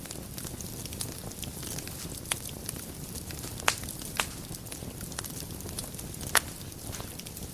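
Wood fire in a fireplace crackling over a steady low rumble, with many small ticks and four sharper pops, the loudest near the end.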